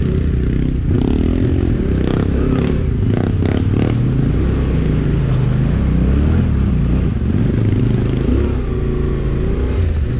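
Motorcycle engine running under way, its pitch rising and falling as the throttle and speed change.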